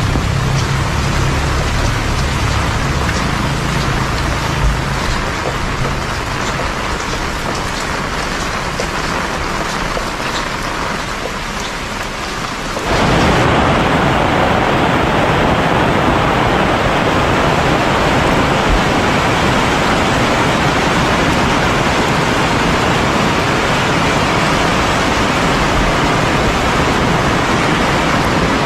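Heavy rain falling steadily, with a low engine hum in the first few seconds that fades away. About thirteen seconds in, the rain noise jumps suddenly louder and fuller.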